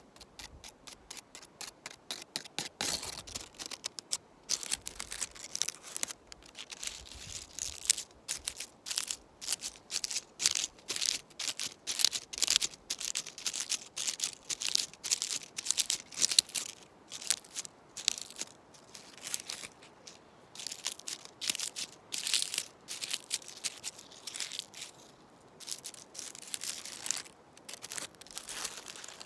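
Close-up rustling and scratching of a spruce branch and dry leaves, in quick irregular strokes. It opens with a fast run of light ticks or taps for the first couple of seconds.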